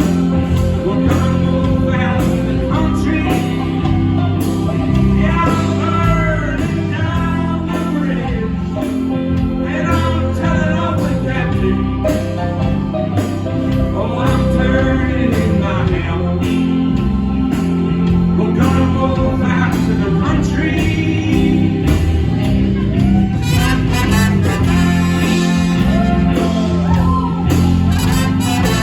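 Live band playing an instrumental break in a soul-blues song, with a lead line of bending notes over steady bass and drums.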